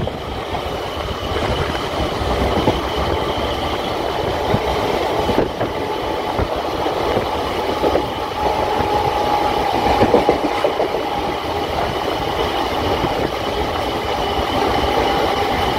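Suburban electric local train (EMU) heard from on board: a steady, continuous running noise of the coach with a faint high whine and a few small knocks.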